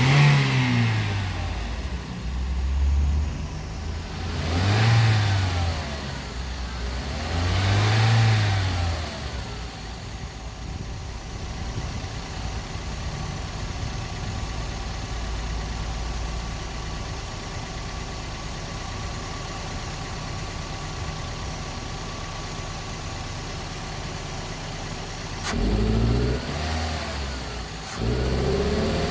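Toyota Vios car engine revved in short blips, three in the first ten seconds, then idling steadily, then revved twice more near the end. It is being revved to check a complaint that it vibrates and bogs 'like it's drowning' under sudden acceleration.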